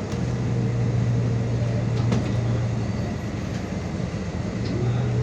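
MAZ 216.066 city bus running along, heard from inside: a steady low engine hum over road and rolling noise, with a few light rattles about two seconds in.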